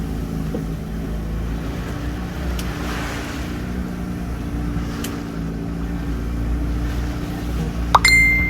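Boat engine running at a steady low idle-like hum. Near the end, a sudden short high-pitched whine cuts in over it.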